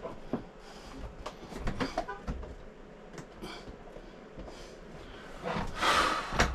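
Small scattered clicks, taps and scrapes of hands working on plastic and metal parts of an RV toilet, with a louder breathy rush lasting about a second near the end.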